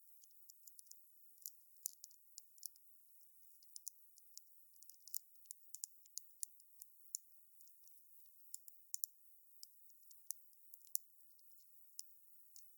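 Wood campfire crackling: irregular sharp snaps and pops, many each second, over a faint high hiss.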